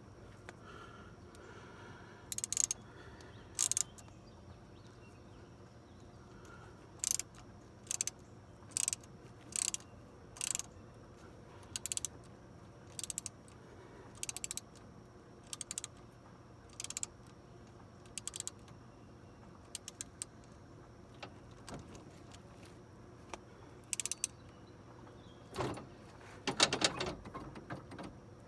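Hand-tool work on a mower's broken quick-hitch assembly: repeated short bursts of metallic clicking, mostly about a second apart. A louder, longer rattle comes near the end.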